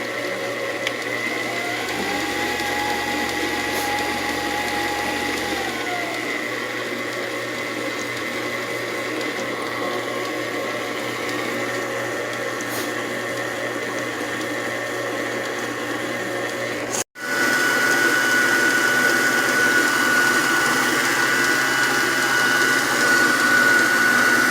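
Electric mixer motor running steadily while beating masa dough, with a constant whine. It breaks off for a moment about two-thirds of the way in, then carries on louder with a sharper, higher whine.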